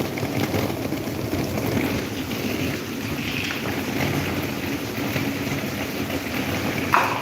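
Electric table fan running steadily: an even motor hum with the rush of air from the blades. A short sharp sound stands out once near the end.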